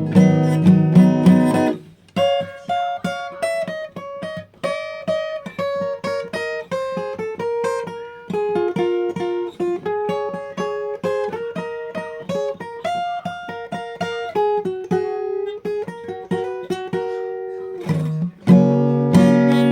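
Acoustic guitar playing instrumentally: strummed chords for about two seconds, then a picked melody of single notes, and near the end strummed chords again with the last chord left to ring.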